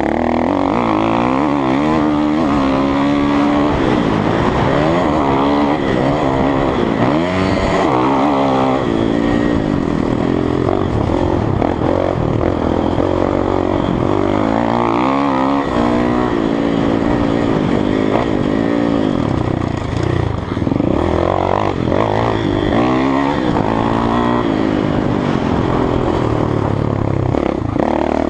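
Kawasaki KX450F motocross bike's single-cylinder four-stroke engine being ridden hard around a track, revving up and dropping back over and over as the throttle is opened and chopped through jumps and corners.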